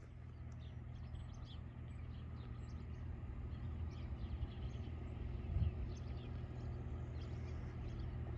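Small birds chirping in short, scattered calls over a faint steady low rumble, with one brief low thump about five and a half seconds in.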